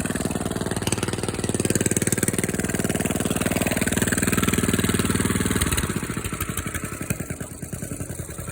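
Warmed-up engine running at raised throttle, then throttled back a little before 6 seconds in to a slower idle with distinct, even firing pulses.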